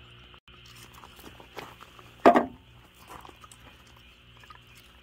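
A steady chorus of frogs calling, with scattered knocks and one louder clatter about two seconds in as wood and gear are handled to set up a campfire.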